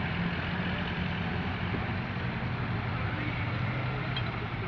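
A tractor's engine running steadily at low revs, with a constant low hum.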